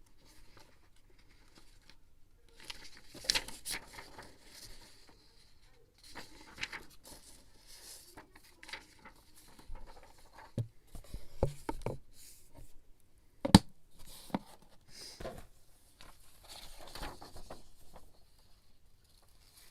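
Scrapbooking paper being handled: irregular rustling and crinkling with scattered taps. Several soft thumps come a little after the middle, and one sharp tap about two-thirds of the way through is the loudest.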